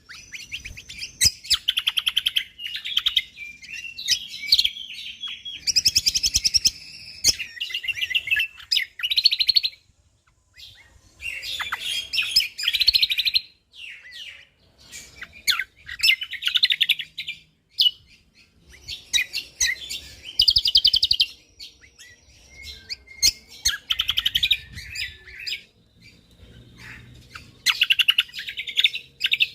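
Cucak kombo (kecial kombo) songbird singing in repeated fast bursts of rapid-fire trills and chatter, each phrase lasting one to three seconds with short pauses between.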